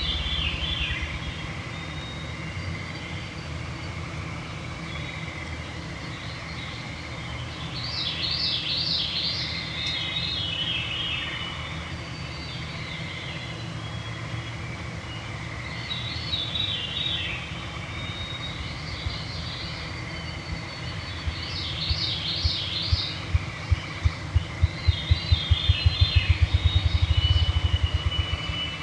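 Evening chorus of woodland songbirds: repeated song phrases every few seconds over a steady high background of thin tones. A low rhythmic thumping quickens into a rapid flutter near the end and is the loudest sound.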